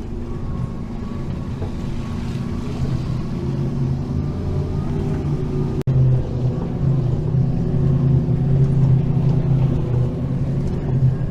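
Vehicle engine droning steadily with road rumble, heard from inside the moving vehicle on a rough road. There is a brief break about six seconds in, and it runs a little louder after that.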